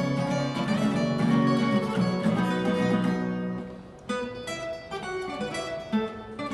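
Two acoustic guitars playing jazz, plucked notes ringing together; the chord dies away about four seconds in before the picking starts again.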